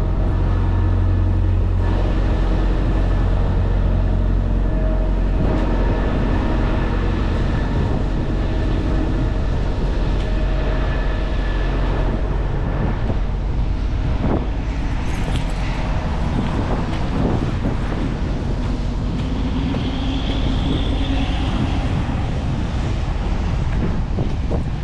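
Diesel engine running at a steady idle, with a few sharp knocks in the middle stretch.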